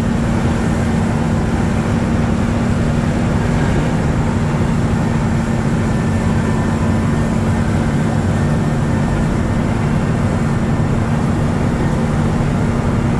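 Water truck's engine running at a steady cruise with road and tyre noise, a constant drone heard from inside the cab.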